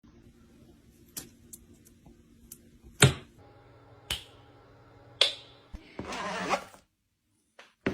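A few sharp knocks or taps, roughly a second apart, the loudest about three seconds in, followed near the end by a brief rustling.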